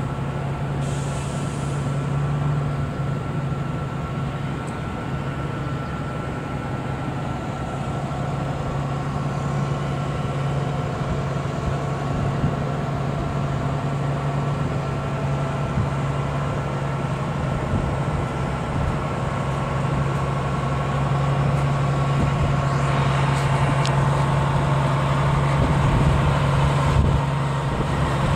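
Truck engine running steadily at low speed while the truck is backed, with a short hiss of air about a second in.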